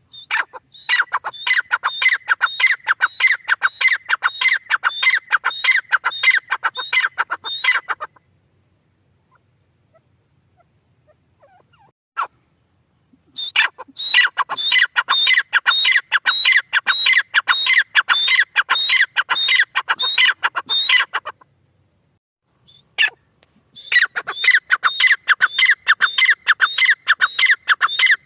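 Francolin (teetar) calling: three long runs of rapidly repeated ringing notes, several a second, each run lasting several seconds with silent pauses between.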